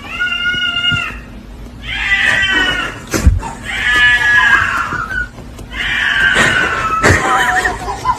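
Domestic cat meowing loudly: four long drawn-out meows in a row, with a couple of short knocks between them.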